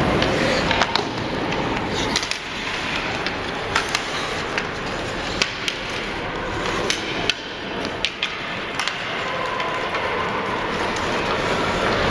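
Ice hockey play on a rink: skates scraping the ice over a steady background, with sharp clacks of sticks on the puck and knocks of the puck against the boards scattered irregularly through.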